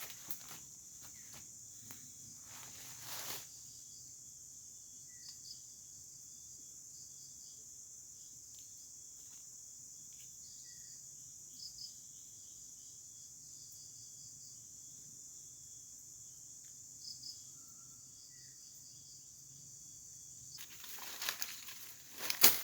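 Steady high-pitched drone of forest insects, with a few faint short chirps. Rustling and crinkling of handling in the first few seconds and again near the end.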